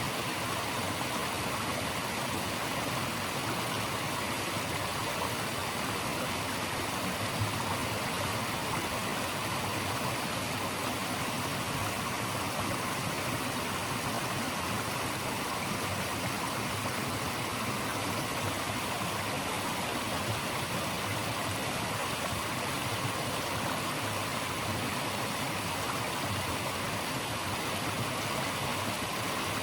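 Steady, even rush of running water, an unbroken hiss with no rise or fall.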